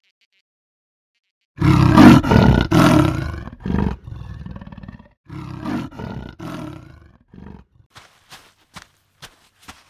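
Leopard growling with deep rasping roars in three long stretches, starting about a second and a half in. Near the end, slow footsteps about twice a second.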